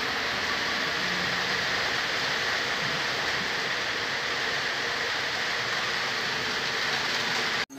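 Heavy rain falling, a steady even hiss that cuts off suddenly near the end.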